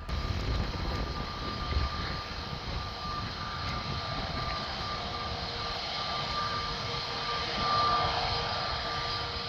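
Jet airliner engines running with a steady whine over a rumble, swelling slightly near the end.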